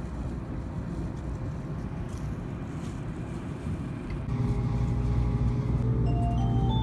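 Steady low rumble of a moving train. About four seconds in, background music comes in with held bass notes, and a stepping melody begins near the end.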